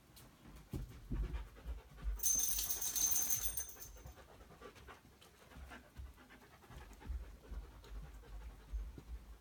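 Toy poodle panting close to the microphone, with low bumps; the breathing is loudest and hissiest for about a second and a half from about two seconds in.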